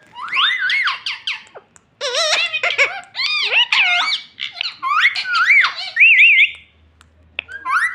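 Pet parrot chattering and mimicking in a high, squeaky voice: strings of rising and falling calls in short phrases with brief pauses, including a quick wavering trill about six seconds in.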